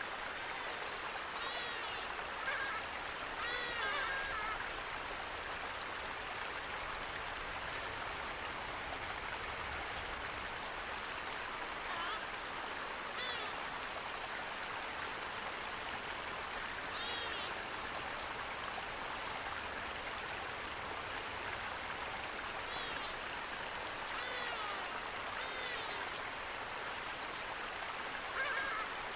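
Steady rush of flowing water, a stream or waterfall, with birds chirping now and then over it, in small clusters about two and four seconds in, and again in the last few seconds.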